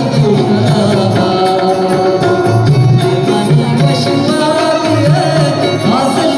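A folk song: a voice singing a melody over steady drum-backed instrumental accompaniment.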